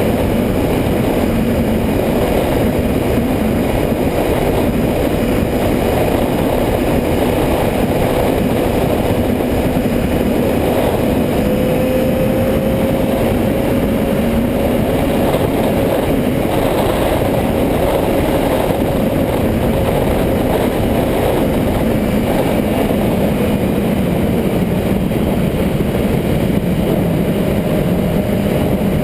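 Motorcycle engine running at steady revs under a heavy rumble of wind and road noise, its pitch rising slightly about halfway through and easing back down.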